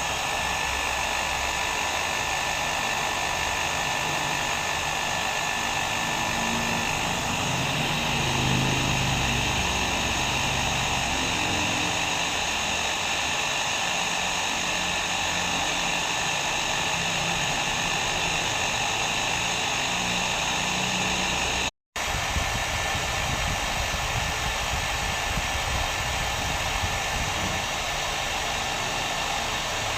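Hair dryer running steadily, a continuous whoosh of blown air with a faint steady whine. The sound drops out for an instant about three-quarters of the way through, then carries on unchanged.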